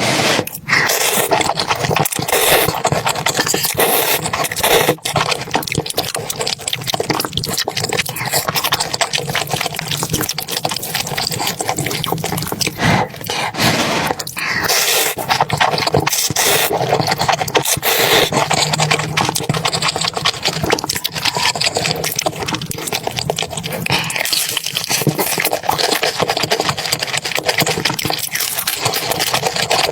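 Food-preparation sounds: a dense, continuous crackle with scraping and liquid sounds, full of small clicks.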